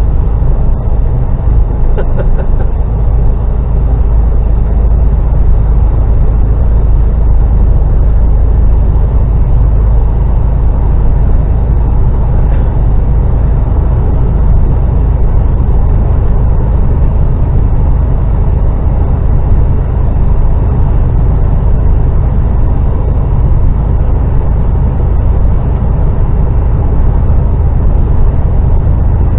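Steady low rumble of an HGV lorry's diesel engine and road noise heard inside the cab while driving at speed.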